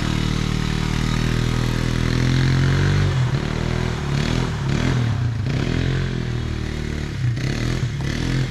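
Small off-road vehicle engine running steadily, then revved up and down again and again from about three seconds in as the rider works at getting through the mud.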